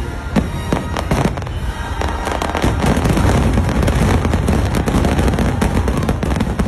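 Fireworks bursting: separate sharp bangs at first, then from about two seconds in a dense barrage of booms and crackling shells going off in quick succession.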